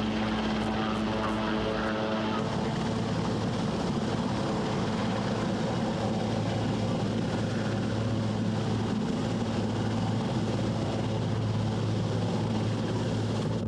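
Steady engine drone with a low, even hum that cuts off suddenly.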